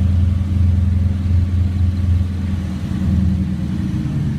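Audi S6 4.0 V8 with a straight-piped, catless Milltek exhaust idling with a steady, deep drone; the note changes slightly about three seconds in.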